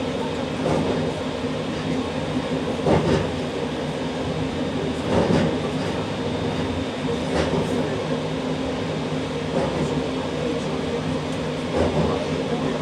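JR Shikoku 8600 series electric train running on the rails, a steady rolling and motor hum with a few sharp knocks from the track.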